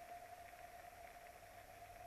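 Near silence: faint hiss with a steady high hum.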